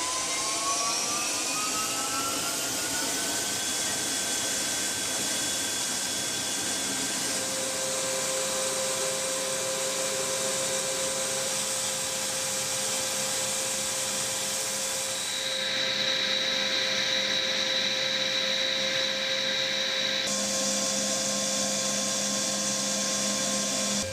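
Turbine engine whine spooling up over the first few seconds, several high tones rising together, then running at a steady pitch under a loud rushing noise. The sound shifts abruptly twice, about fifteen and twenty seconds in.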